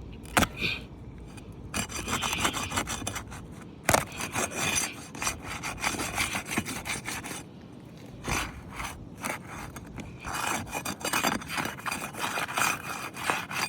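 Asphalt shingle being worked loose from its seal: irregular scraping and rasping against the gritty shingle surface, with a few sharp snaps. The shingle is shedding granules and tearing as it is unsealed.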